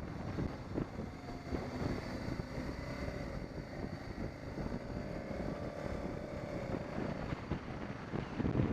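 BMW 650 GS motorcycle riding along: wind buffeting the microphone over a steady engine hum, whose note comes through more clearly in the middle of the stretch.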